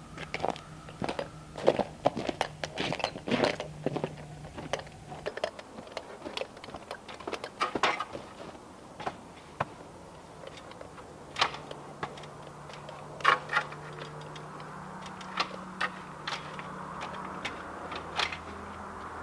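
Irregular knocks and clicks, bunched in the first half and sparser later, over a faint steady hum.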